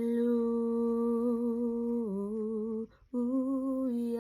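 A woman's voice singing unaccompanied, holding long notes with slight vibrato. The pitch dips about two seconds in, then there is a quick breath and another long note begins.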